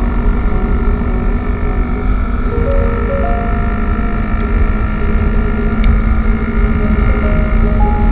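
Honda CB150R single-cylinder motorcycle running at road speed, with heavy wind buffeting on the microphone.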